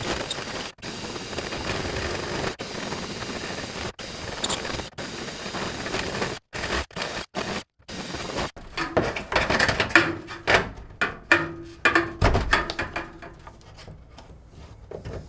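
Power tool cutting a hole through a wooden wall stud, running steadily with a thin high whine and stopping abruptly several times. About halfway through it gives way to irregular scraping and knocking against the wood.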